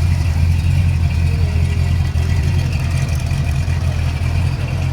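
Car engine idling close by with a steady deep rumble.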